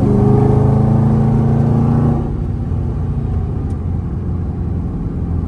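Scat Pack's 6.4-litre HEMI V8 pulling under acceleration, its note climbing slowly, then easing off about two seconds in to a lower, quieter steady rumble.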